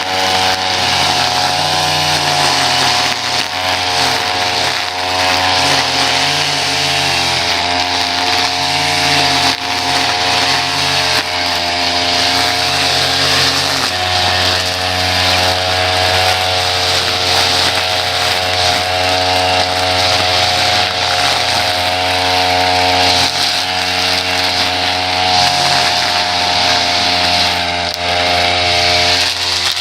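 Small gasoline engine of lawn-care equipment running steadily at high speed, with an even, unbroken engine note.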